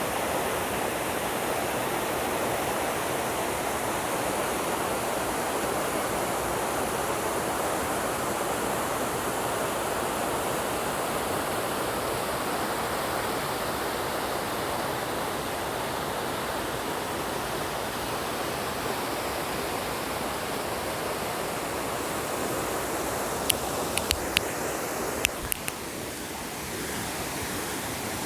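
Waterfall cascades and fast river water rushing in a steady, dense wash of noise. A few sharp clicks come near the end, after which the water sounds slightly quieter.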